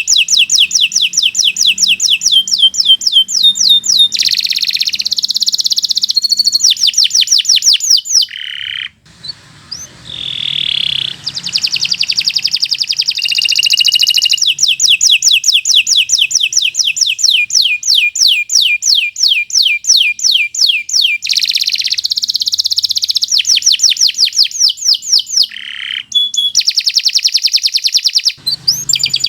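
Domestic canary singing long, fast trills of repeated high notes, in the continuous style of a song recording used to teach other songbirds. There are brief pauses about nine seconds in and again near the end.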